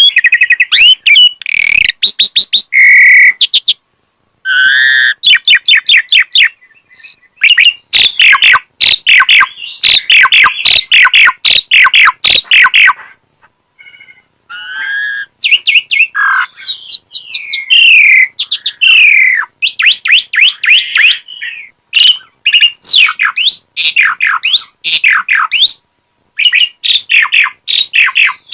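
Asian pied starling singing a long, varied song of fast chattering note runs and whistles, broken by a few short pauses. It is the bird in full song, running through its repertoire of learned phrases.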